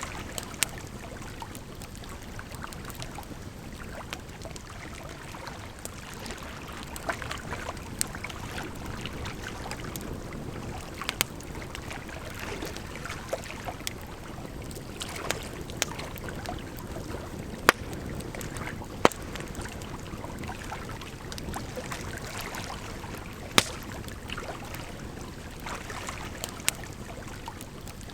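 Campfire crackling, with sharp, irregular pops every few seconds, over a steady rush of flowing water.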